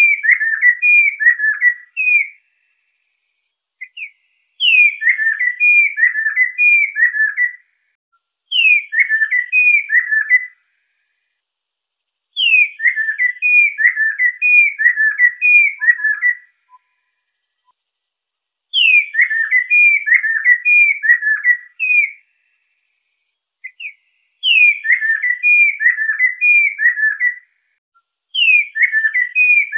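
Lesser necklaced laughingthrush (poksai lesser) singing: phrases of several quick down-slurred whistled notes, each opening on a higher note, repeated about every four seconds.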